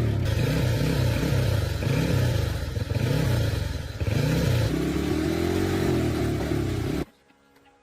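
Motorcycle engine being revved again and again, its pitch climbing and dropping in quick repeated blips, then holding steadier near the end.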